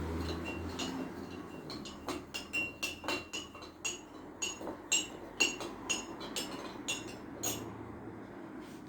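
A spoon stirring coarse sea salt into lime juice in a cup, clinking against the cup's side about two or three times a second. The clinks begin about two seconds in and die away near the end.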